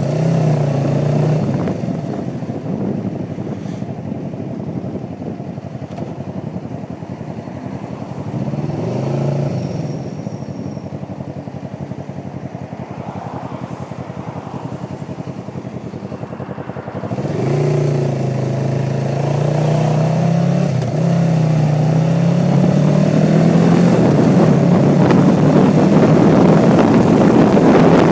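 Kawasaki Vulcan 500 motorcycle engine heard from the bike while riding, with wind rush. It eases off and quiets after about two seconds, then about 17 seconds in it picks up again and holds a steady high drone in a low gear, with wind noise growing toward the end.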